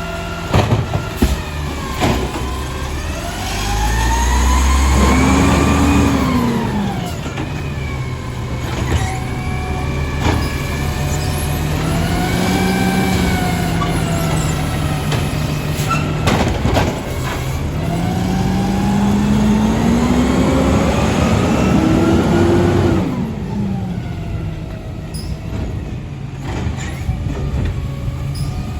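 Garbage truck engine running and revving up and down twice, the pitch rising and then falling back each time, with several sharp clanks and knocks in between.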